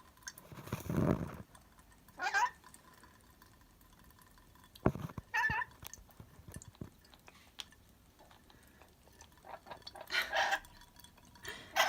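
Pet parrots giving a few short calls, several seconds apart, with faint clicks between them.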